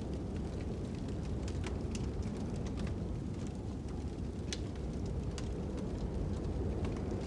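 Fire and wind ambience: a steady low rush of wind with irregular sharp crackles and pops from a burning fire.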